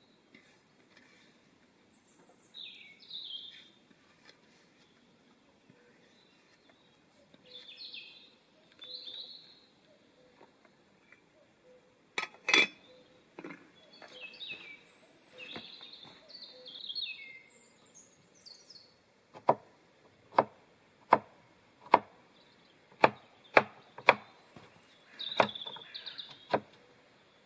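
Small birds chirping on and off, with one loud knock about halfway through. In the last third comes a run of about ten sharp knocks, a little under a second apart.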